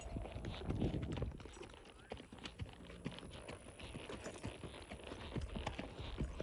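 Horse hooves clip-clopping: a run of irregular sharp hoof strikes, louder in the first second.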